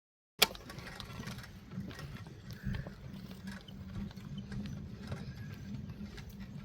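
Bicycle riding along: a steady low rumble of the tyres and bike, with irregular light clicks and rattles. It starts abruptly with a sharp click about half a second in.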